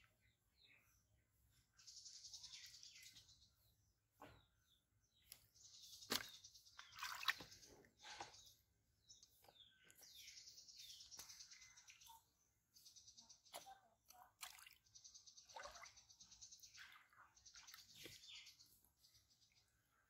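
A bird calling over and over in high, rapid trills about a second long, every couple of seconds. A few sharp clicks stand out near the middle.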